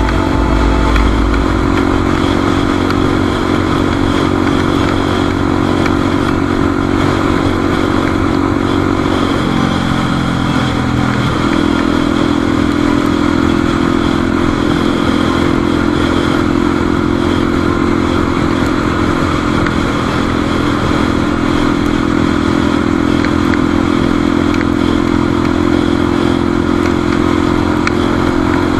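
Motorcycle engine running at a steady cruise, with a steady rush of wind and road noise. The engine note dips for a moment about ten seconds in, then holds steady again.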